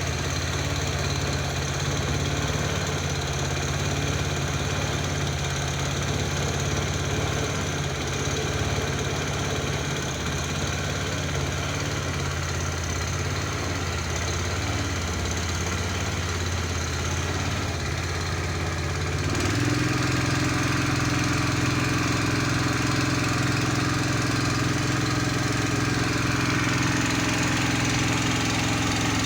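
An engine running steadily. About two-thirds of the way through, its tone shifts to a slightly higher, steadier hum and grows a little louder.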